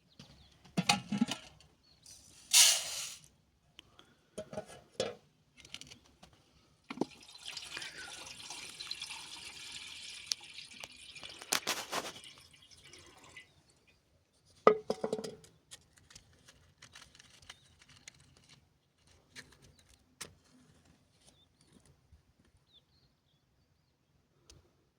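Liquid poured steadily for about six seconds near the middle, among scattered knocks and clatters of kitchenware being handled.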